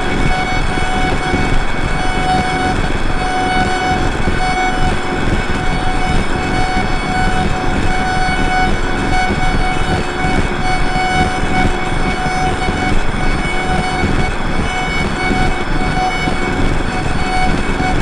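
Drone noise music: a dense, rumbling wall of noise with a few sustained steady tones held above it, unchanging throughout.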